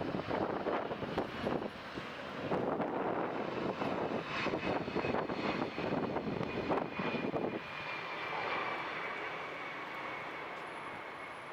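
Jet airliner passing on its landing approach: a loud engine roar that rises and falls unevenly, then smooths out and fades a little, with a high whine that slowly drops in pitch through the second half.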